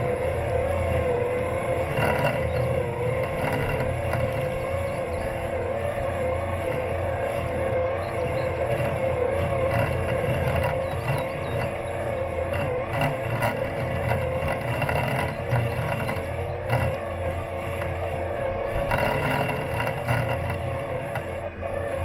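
Robot lawn mower's electric motors running steadily as it mows, a humming whine that wavers slightly in pitch over a low rumble, heard from right on the machine's body.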